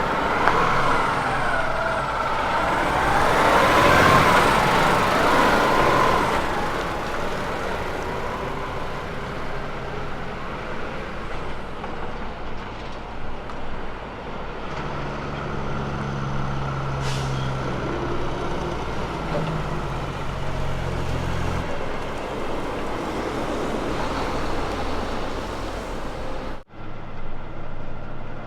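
Kenworth truck diesel engines running: one truck passes by, loudest about four seconds in with its engine note sliding as it goes past, then a truck engine pulls with steady low notes that shift in pitch. The sound cuts off abruptly for an instant near the end.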